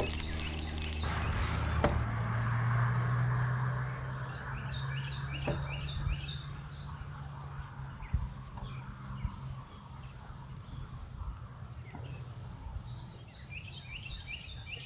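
A songbird sings a quick run of repeated chirping notes twice, about five seconds in and again near the end, over a steady low hum of outdoor background noise that is loudest in the first few seconds.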